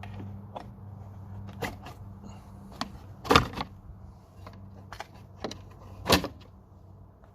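Sharp plastic clicks and knocks as the clipped-in front grille of a VW Passat B8 is worked loose and pulled forward off the car. Two knocks stand out, one about three seconds in and one about six seconds in.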